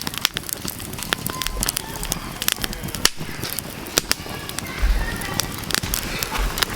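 Wood campfire crackling, with irregular sharp pops and snaps from the burning firewood.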